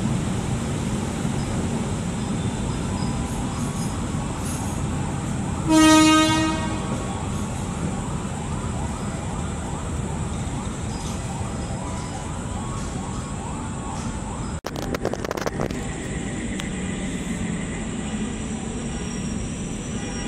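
Passenger train running past the platform, a steady rumble of wheels on rails. A short, loud blast of a train horn sounds about six seconds in, and there is a brief clatter about fifteen seconds in.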